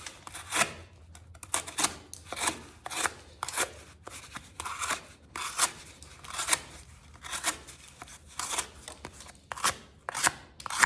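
Hand-made 1075 steel knife slicing through cardboard in a quick series of short cutting strokes, about two a second.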